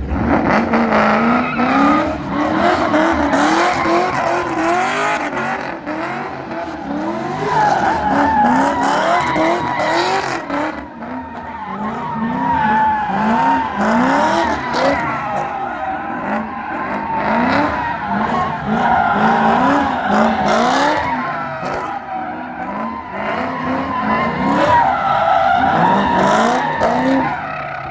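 A car's engine revving hard again and again, each rev climbing in pitch, while its tyres squeal steadily as it spins them in a burnout or donuts.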